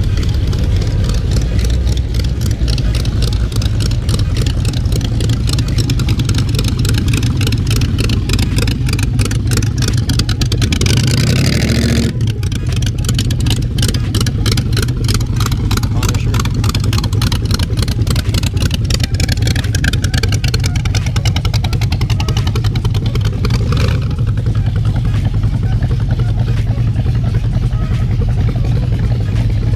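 Car engines running in slow cruise traffic, with a steady low rumble throughout. The sound changes abruptly about twelve seconds in and again near twenty-four seconds.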